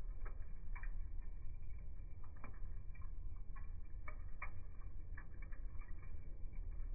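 Burning wood fire crackling: irregular snaps and pops, several a second at times, over a steady low rumble.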